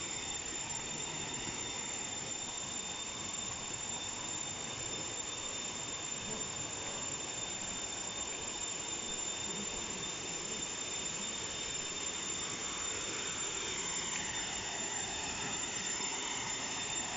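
Steady rush of flowing stream water, with a continuous high, even drone of insects.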